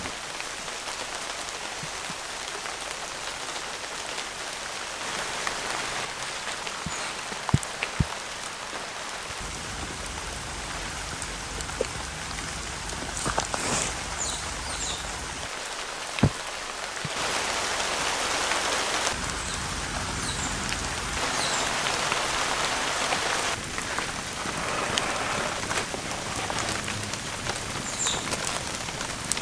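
Heavy rain falling steadily, with a few sharp drips striking close by. The sound of the rain shifts abruptly several times, now fuller, now thinner.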